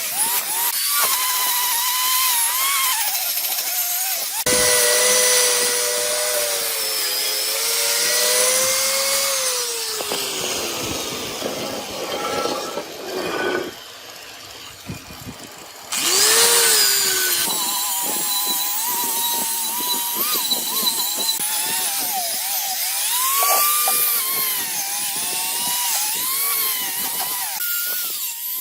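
Handheld power tool running on metal parts, its whine rising and falling in pitch as the load changes. The sound breaks off and restarts abruptly a few times, with a quieter stretch about two-thirds of the way through.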